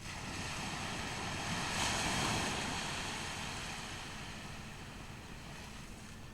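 Ocean surf: a single wave breaks about two seconds in and washes up the shore, then slowly fades.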